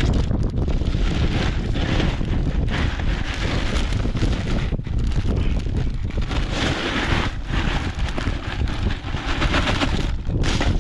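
Wind buffeting the microphone, loud and uneven.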